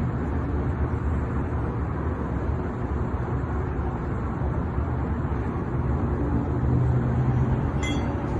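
A steady low droning hum with a rumble underneath, of a kind the person recording it outdoors could not explain and found with no machinery or construction nearby; it swells slightly near the end, with a faint tick just before it ends.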